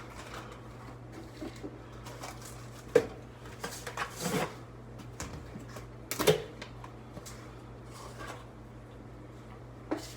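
Kitchen handling noise while coffee is being made: a few sharp knocks and clatter of items set down or moved, the loudest about three, four and six seconds in, over a steady low hum.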